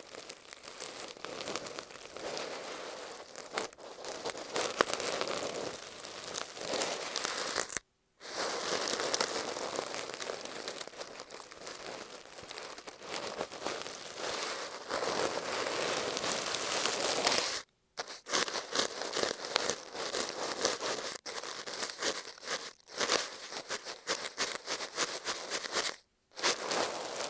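Shaving brush bristles rubbed and swept over masking tape wrapped on an earphone microphone, close up: a dense, crackly crinkling and scratching, broken by three brief total silences.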